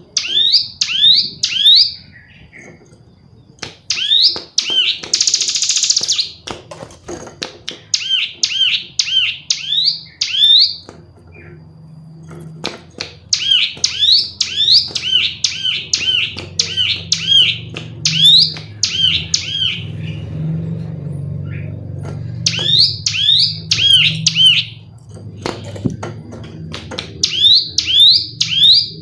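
Female ciblek gunung, a prinia, calling in quick runs of sharp, downward-sweeping chirps, about four a second, in phrases of a few seconds each. A low hum sits under the calls through the middle.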